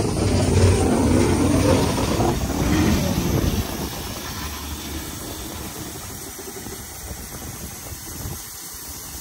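Narrow-gauge steam locomotive moving close by with a low rumble and hiss of steam, loud for the first three and a half seconds, then dropping away to a quieter steady sound.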